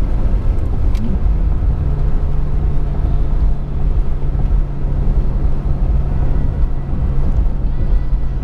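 Honda Accord driving at a steady speed: a low engine drone with road and tyre rumble, and a steady engine hum settling in about a second in. A single short click about a second in.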